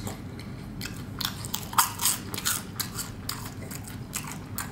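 Close-up chewing of toasted garlic cheese bread: irregular crisp crunches, about three a second, loudest around two seconds in.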